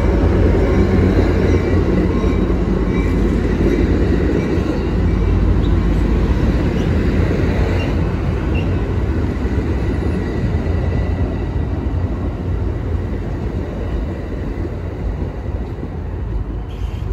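A train rolling past, a steady rumble that slowly fades.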